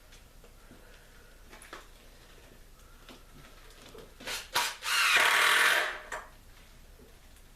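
A handheld power tool working wood in short bursts: two quick blips, then a loud run of about a second, then one more brief blip, with faint clicks and knocks of handling before it.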